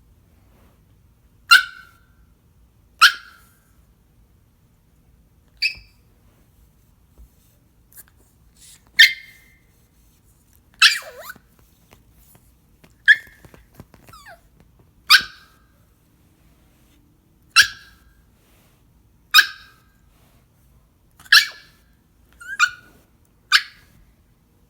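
Shiba inu giving about a dozen short, high-pitched barks, one every second or two: begging for food.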